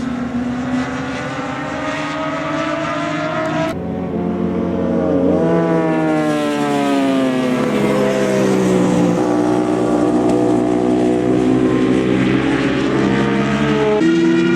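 Racing motorcycle engines running at high revs, the pitch rising as they accelerate and changing abruptly at shifts, with a sharp break about four seconds in.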